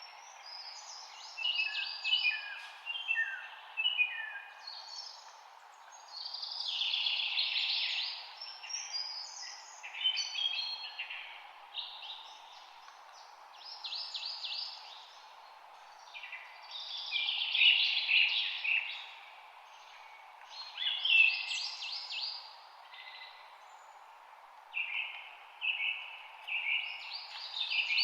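Songbirds singing in short phrases of chirps and fast trills, a new phrase every two to three seconds, over a steady low background hiss.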